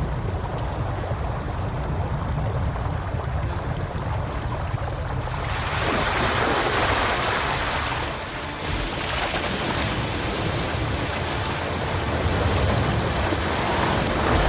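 Flash floodwater rushing over desert ground: a steady low rumble, joined about five seconds in by a louder, wide rushing hiss. Until then a faint high chirp repeats about three times a second.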